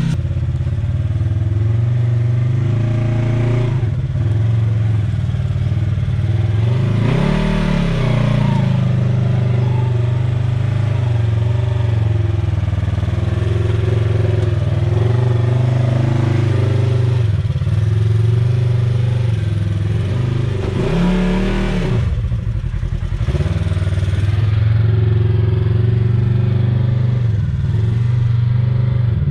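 Side-by-side UTV engine running under way off-road, steady for most of the time, revving up and dropping back twice.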